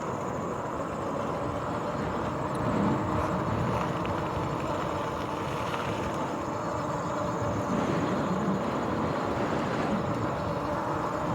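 RadRover 5 electric fat-tire bike being ridden along a trail: steady rolling and riding noise of the fat tyres and bike, with a faint steady whine.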